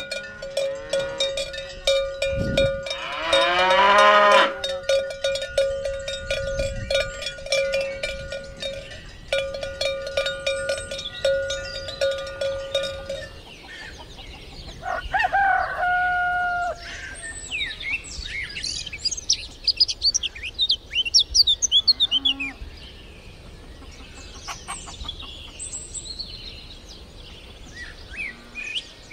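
A cow's neck bell clanging unevenly as a grazing cow moves, with one long moo about three seconds in. The bell stops about halfway through, and small birds then chirp and sing repeatedly.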